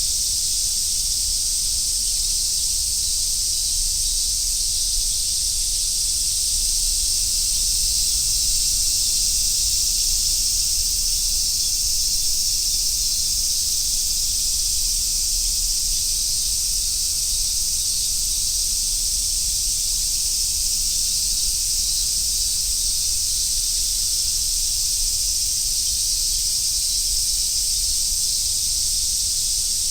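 Dense chorus of cicadas, large brown cicadas among them, a steady high sizzling drone that holds without let-up.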